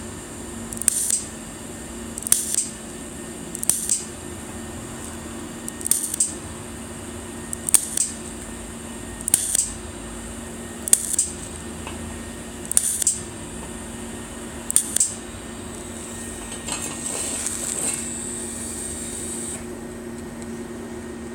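WT-TIG160 TIG welder striking a string of short arcs on a thin stainless steel pipe, about nine brief bursts spaced a second and a half to two seconds apart, each one a tack spot in a continuous chain of spot welds. Near the end comes one longer arc of about three seconds. A steady hum from the machine runs underneath.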